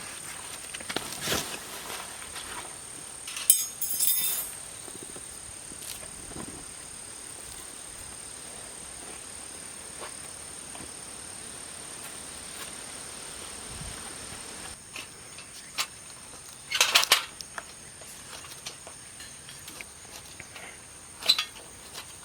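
Insects keep up a steady, high-pitched drone. A few short knocks and rustles break in, the loudest about three quarters of the way through.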